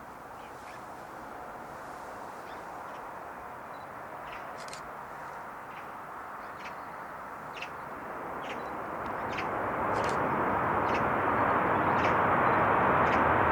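Jet noise of an Airbus A380 approaching, a steady rush that builds much louder over the second half. Short high bird calls, crow-like, repeat throughout.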